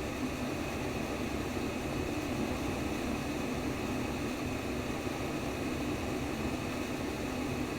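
Steady white noise for baby sleep: a constant, unchanging rush with no rhythm or breaks.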